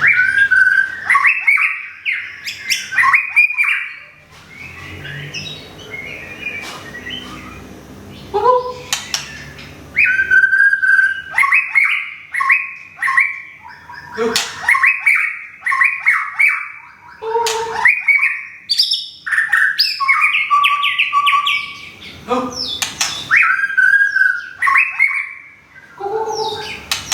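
White-rumped shama singing: a run of short, varied phrases of clear whistles, pitch glides and rougher chattering notes. A few seconds in, the song drops to a quieter spell of softer notes for about six seconds, then resumes in full.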